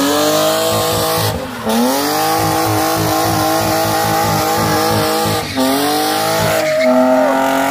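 BMW E36 328's straight-six engine revving hard, its pitch climbing and dropping sharply several times as the car is slid around, with tyres squealing.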